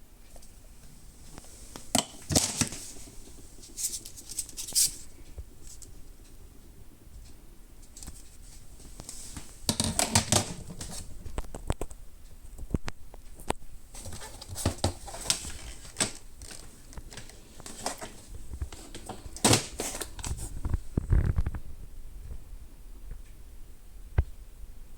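Handling noise: scattered clicks, taps and rustling in irregular clusters, with a low thud a little past the middle; no motor is running.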